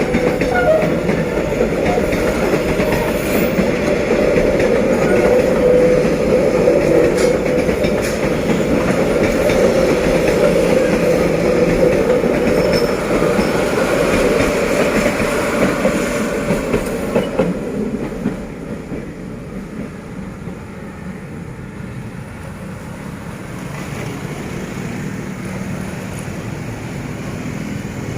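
Passenger train passing close by, its wheels running over the rails with a steady, loud noise. The noise drops and turns duller about 18 seconds in.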